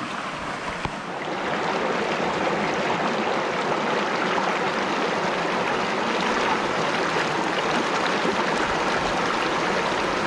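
River water rushing in a steady wash, growing louder about a second and a half in.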